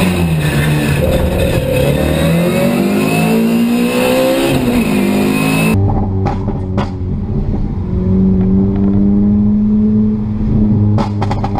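Onboard engine sound of a racing Mini, revving up and down as it slows and then accelerates hard. About six seconds in it cuts to a first-generation BMW Mini's engine heard from inside the cabin, its note climbing steadily under acceleration, with a few sharp clicks.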